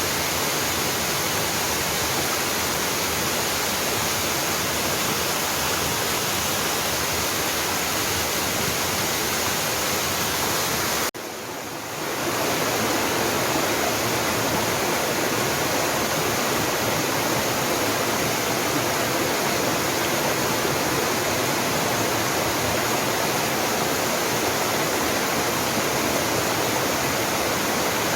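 Mountain waterfall pouring steadily, a constant rushing of falling water. About eleven seconds in, the sound drops away suddenly and fades back up within a second or so, as at an edit cut.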